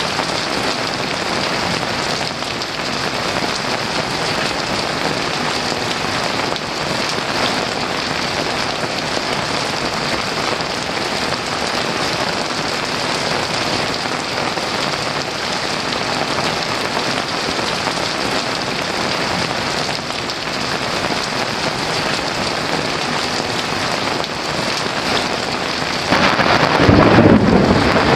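Heavy rain falling steadily. About two seconds before the end, a loud rumble of thunder breaks in and builds.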